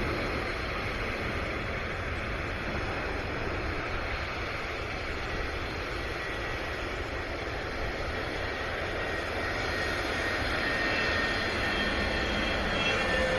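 Aircraft engine noise from a display flight: a steady roar that grows slowly louder over the last few seconds, with a faint high whine coming in near the end.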